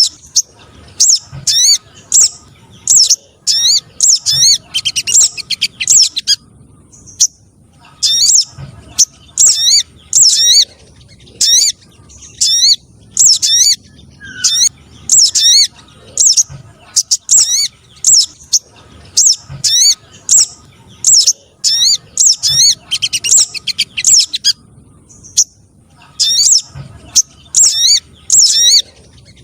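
Recorded spiderhunter calls played as a lure: rapid runs of sharp, high, sweeping chirps, broken by short pauses twice.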